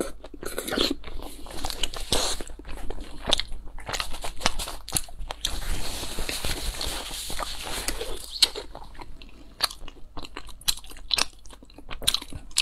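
Close-miked chewing: wet, clicking mouth sounds of a person eating. For about three seconds in the middle a steady hiss covers them while a tissue is held to the nose.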